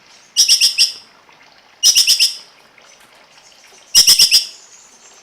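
A songbird calling in three short bursts of four or five quick, sharp, high notes, about a second and a half apart.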